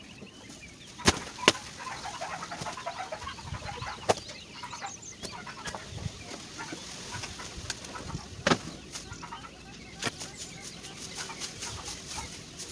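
Chickens clucking, with a few sharp knocks standing out among them.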